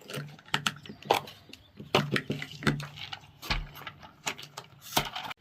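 Irregular sharp clicks and knocks, a few a second, of pistol magazines being loaded and handled, with a faint low hum underneath.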